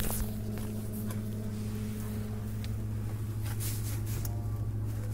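Whirlpool side-by-side refrigerator running with a steady low hum, with a few light handling rustles and clicks.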